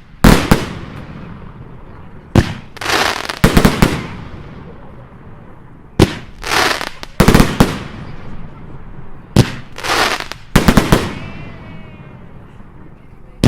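Fireworks going off: sharp bangs in clusters every second or two, several of them doubled or tripled, each followed by a brief hissing, crackling spray as the shells burst.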